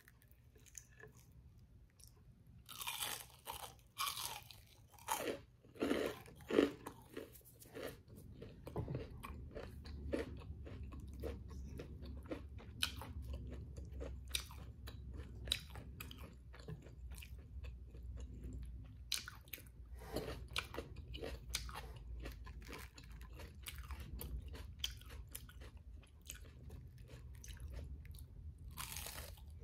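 Close-miked eating of crisp fried food: half a dozen loud crunching bites in the first several seconds, then steady chewing with many small crackles.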